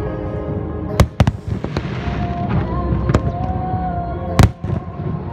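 Fireworks bursting over accompanying show music. There are sharp bangs about a second in, another around three seconds, and the loudest near four and a half seconds, with a crackling hiss after the first bangs.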